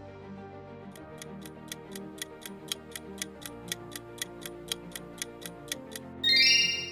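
Countdown-timer sound effect: an even clock-like tick about four times a second over soft, sustained background music, ending about six seconds in with a bright chime, the loudest sound.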